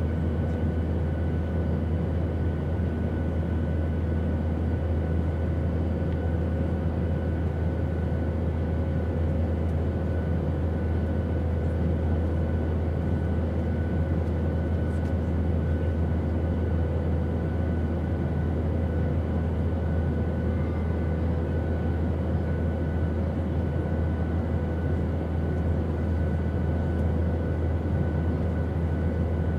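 Steady airplane noise: an unchanging deep drone with a faint whine of steady tones above it.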